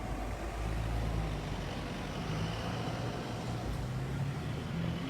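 A road vehicle's engine running close by, a low steady hum that swells about half a second in, over street noise.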